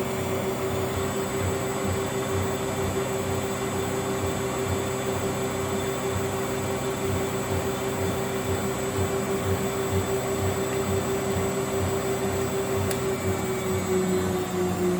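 Miele W761 washing machine spinning its drum at speed: a steady whine over a regular low pulsing, the pitch sagging slightly near the end. The motor bearings are noisy, which the owner calls 'extravagant'.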